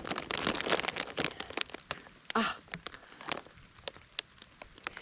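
Plastic baggie of sap crinkling and crackling as it is handled. The crackles are dense for about the first two seconds, then thin out to scattered clicks.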